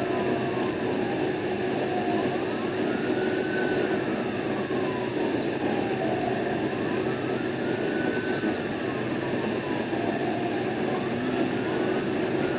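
Police car siren on wail, its pitch rising and falling in slow cycles about every four and a half seconds, over steady road and engine noise.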